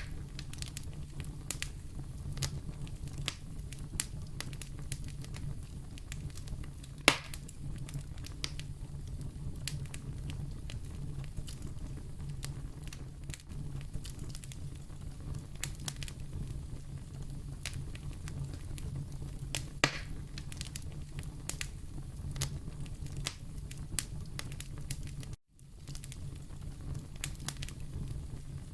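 Fire burning in a fireplace, crackling steadily over a low rumble, with two louder pops about a quarter of the way in and about two-thirds through. The sound cuts out for a moment near the end.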